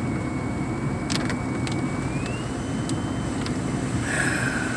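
Honda Accord driving in heavy rain, heard from inside the cabin: a steady rumble of engine, tyres on the wet road and rain. A few sharp ticks come through, and a thin whine steps up in pitch about two seconds in.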